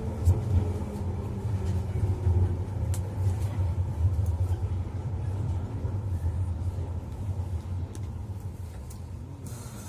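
London Underground Piccadilly line train running through the tunnel, heard from inside the carriage: a steady low rumble with a motor whine dropping in pitch in the first couple of seconds, easing off near the end as the train slows for the next station.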